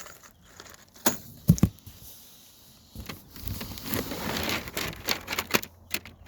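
Beehive parts and packaging being handled: a couple of sharp knocks about a second and a half in, then a run of light clicks and rustling in the second half.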